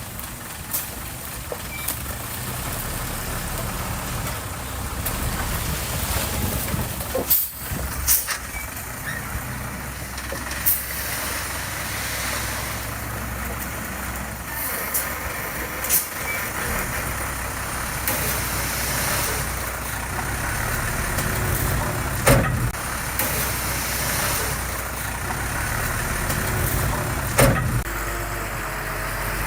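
Diesel earthmoving machinery, a small bulldozer and dump truck, running steadily, with about six short sharp noises standing out over the engine drone.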